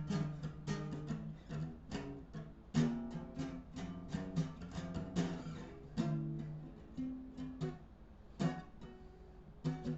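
Guitar music without singing: strummed chords in a steady rhythm, an instrumental passage between sung lines.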